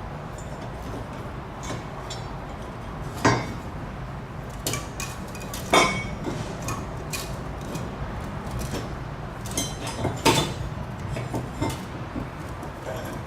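Metal hand tools and parts clinking and clanking during work, with three sharper metal knocks, over a steady low background hum.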